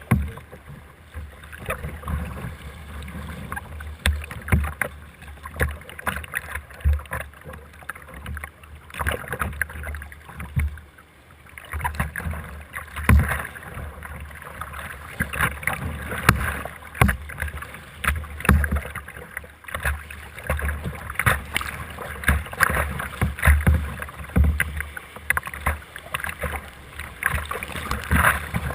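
Class III whitewater rushing around a kayak, with irregular splashes of paddle strokes and waves breaking over the boat.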